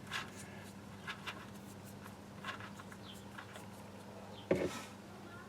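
A few faint short clicks and light knocks of hands and tools at work, with one louder knock about four and a half seconds in, over a steady low hum.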